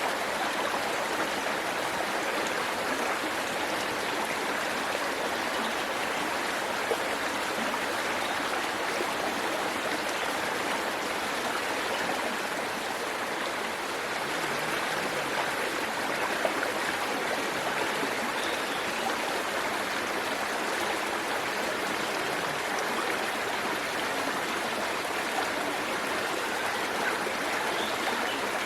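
Waterfall: water pouring and splashing in a steady, unbroken rush, with an occasional brief louder splash.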